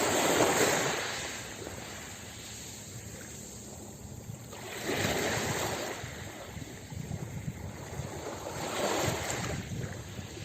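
Ocean waves breaking and washing up a beach, three surges about four seconds apart.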